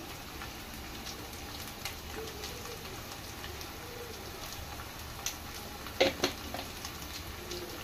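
Taro pieces and onions frying in oil in a stainless-steel kadai: a steady low sizzle with scattered faint crackles. A few sharp clicks come in quick succession about six seconds in.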